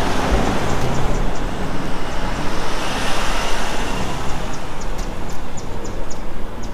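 Car noise on a road: a steady rush of tyre and engine noise, swelling slightly around the middle.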